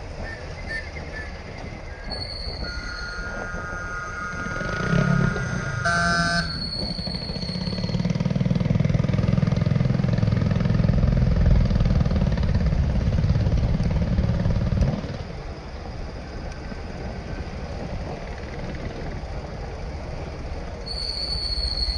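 Motorcycle riding through city traffic: steady engine and road noise, with vehicle horns honking about three and six seconds in. The low engine rumble grows louder from about eight seconds and drops away suddenly about fifteen seconds in.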